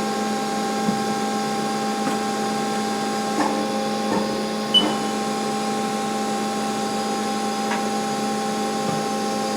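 2004 Haas SL-20T CNC lathe running with a steady mechanical hum made of several fixed tones, while its tailstock is moved, with a few light clicks about one, three and a half, four and five seconds in.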